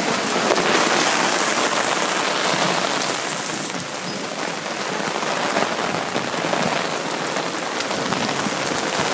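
Heavy rain pouring down on wet pavement and parked cars, a dense steady hiss and patter, a little louder in the first few seconds.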